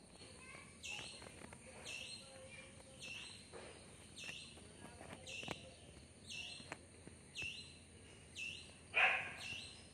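A bird calling in the background, the same short chirp repeated about once a second, over a steady thin high whine. A louder, fuller sound comes briefly about nine seconds in.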